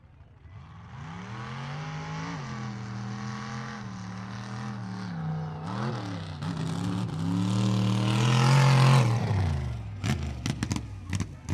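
Mud truck engine under hard throttle. It revs up, holds high with two brief dips, and climbs to its loudest near the end of the run before dropping off. Several sharp clattering knocks follow.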